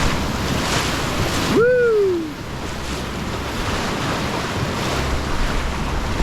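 Rushing whitewater of a river rapid with wind buffeting the microphone. About one and a half seconds in, a short cry rises and then falls in pitch.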